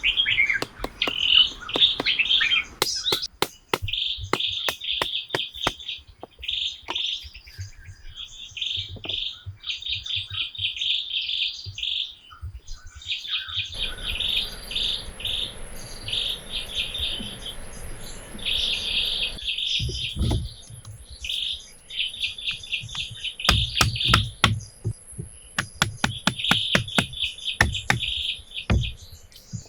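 Birds chirping in repeated short phrases, with many sharp clicks and knocks scattered through. A thin, steady high-pitched tone comes in about halfway and stops just before the end, and a soft hiss runs for several seconds in the middle.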